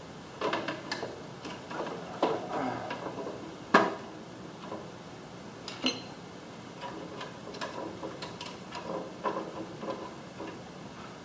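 Scattered clicks, taps and small knocks of screws and a screwdriver being handled while the cover screws of a garage door opener are put back in, with a sharper knock about four seconds in.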